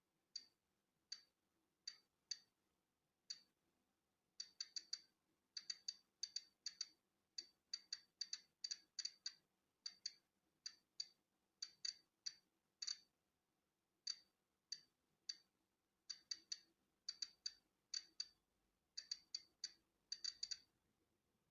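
Polon EKO-C digital Geiger counter clicking at random, irregular intervals, each a short sharp high tick, sometimes several in quick succession. The clicks count natural background radiation.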